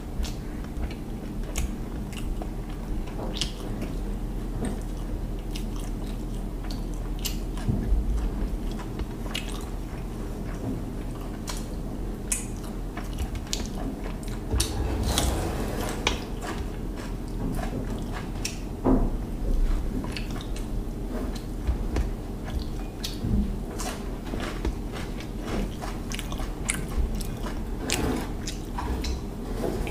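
Close-miked chewing and biting of hilsa fish biryani, with frequent wet mouth clicks and small crunches, over a steady low hum.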